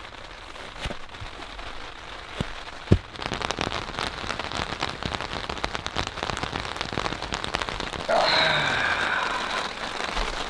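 Rain pattering on the fabric of a tent awning, the drops growing denser after about three seconds, with a single sharp knock near the start of that. A louder sound with a wavering pitch joins for about two seconds near the end.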